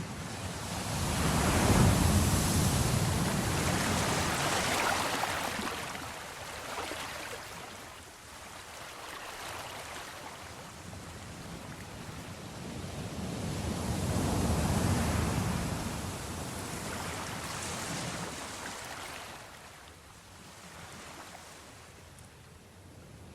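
Ocean waves washing in and pulling back in slow swells, with two larger waves surging about two seconds in and again about fourteen seconds in, each fading away.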